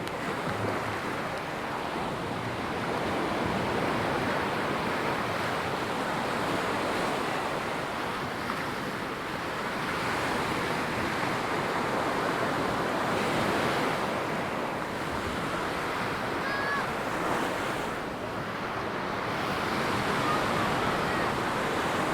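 Ocean surf washing onto a sandy beach, a steady rush of breaking waves that swells and eases every several seconds.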